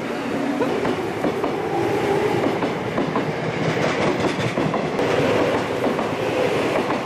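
A Seibu commuter train runs close past along the platform: a steady rumble of its steel wheels on the rails, thick with rapid clicking.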